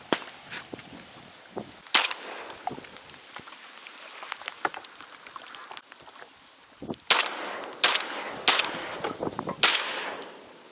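Shotgun shots during a duck hunt: one shot about two seconds in, then a quicker run of four shots near the end, each with a short echoing tail.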